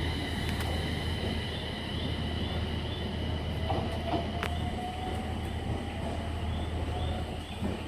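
Aoimori Railway electric local train pulling out of the station: a steady low rumble with high, steady squealing tones from the wheels, and a faint motor whine that slowly rises in pitch in the second half as it picks up speed.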